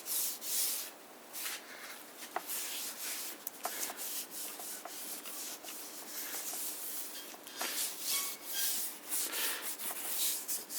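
Soft cotton cloth being wiped lightly over the oiled surface of an antique Singer 15 sewing machine head: an uneven, stroke-by-stroke swishing with a few small clicks.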